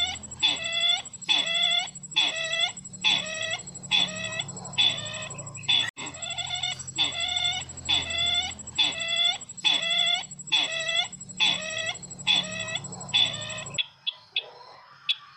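Recorded call of the bird called sisintar ladang, played as a lure: short identical notes repeated about twice a second, with an electronic hum under them, cut off abruptly near the end, leaving a few faint chirps.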